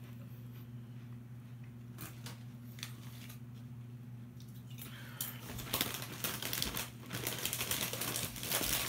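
Crisp snack bag crinkling and rustling as it is handled, a few scattered clicks at first and then dense, continuous crinkling from about five seconds in, over a low steady hum.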